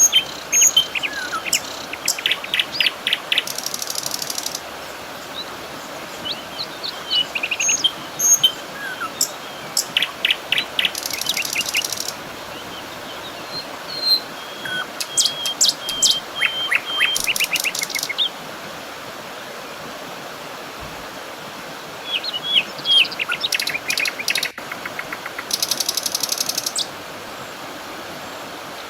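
Birds singing: repeated phrases of rapid high trills and short chirps, with a lull in the middle, over a steady background hiss.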